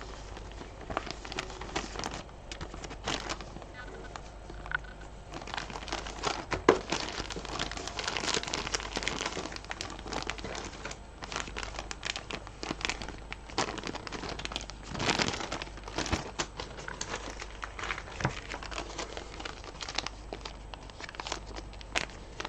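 Hands handling beads and their containers: irregular crinkling with many small clicks and taps.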